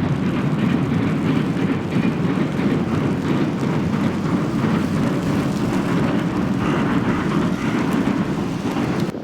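Electric commuter train crossing a railway bridge: a steady heavy rumble with faint wheel clicks, which cuts off abruptly near the end.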